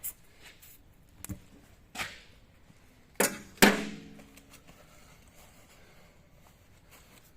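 A few light knocks, then two louder clanks about half a second apart, the second ringing briefly like struck metal.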